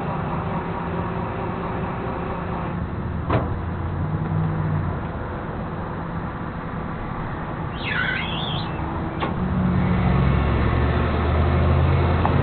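Flatbed tow truck's engine running steadily, getting louder about ten seconds in, with two sharp clicks and a short bird chirp about eight seconds in.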